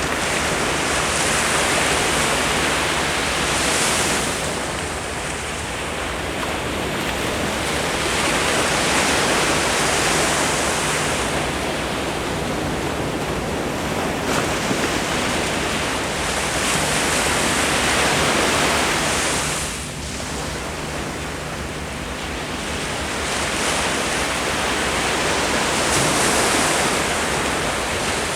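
Ocean waves breaking and washing on a beach, a continuous surf noise that swells and eases every few seconds.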